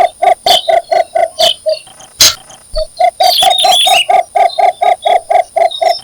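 Male cinnamon bittern giving its mate-seeking call: a long run of short, evenly repeated notes at about four a second, breaking off for about a second near two seconds in and then resuming. A sharp click falls in the gap, and brief higher chirps sound around three and a half seconds in.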